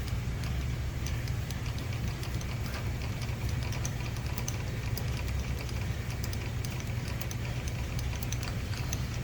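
Metal lathe running steadily with a low hum while a chamfer is cut on the edge of a pulley's bore, with scattered light ticks over it.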